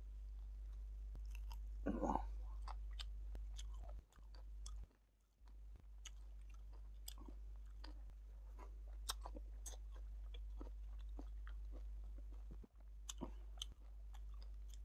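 Close-up chewing of a person eating rice and meat by hand: wet smacks and clicks of the mouth, with a brief louder mouth sound about two seconds in. A steady low hum runs underneath and drops out briefly twice.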